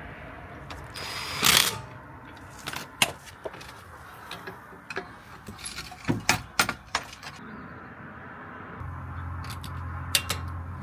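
Scattered metallic clinks and knocks of tools and wheel bolts being handled, with a brief louder rasp about one and a half seconds in. A steady low hum starts near the end.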